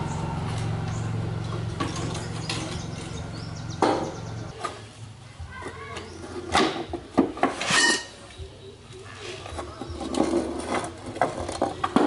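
A low steady motor hum that stops about four and a half seconds in, followed by scattered clicks, taps and clinks of metal being handled.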